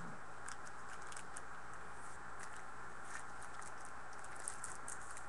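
Faint scattered ticks and light rustling from trading cards being handled, over a steady background hiss.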